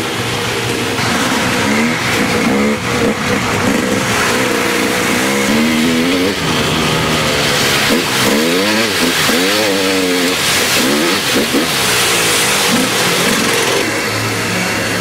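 Dirt bike engines revving, their pitch swinging up and down again and again. The engines hold steadier at the start and again near the end.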